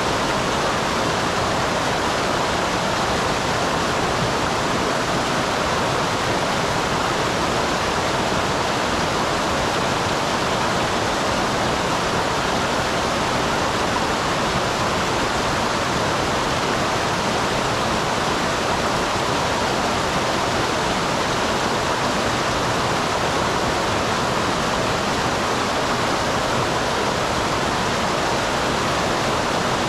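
Small waterfall on a mountain stream, water pouring and splashing in a steady rush that does not change.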